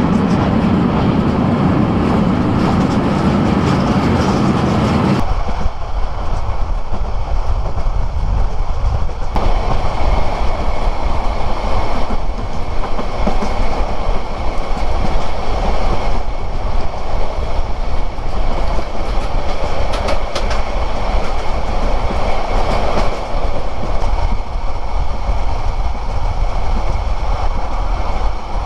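Passenger train of the Cox's Bazar Express running at speed, heard from a camera held outside the coach window: a loud, steady rush of rail noise and wind. The sound changes abruptly about five seconds in, at a cut between shots.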